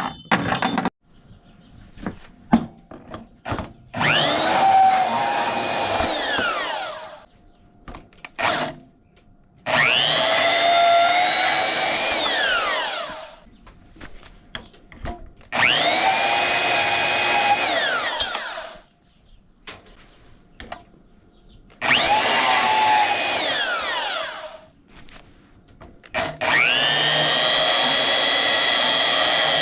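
Bandsaw switched on for about five short cuts of roughly three seconds each, spinning up and coasting down each time as it cuts the tips off copper thermostat rods. Light clicks and clatter come between the cuts.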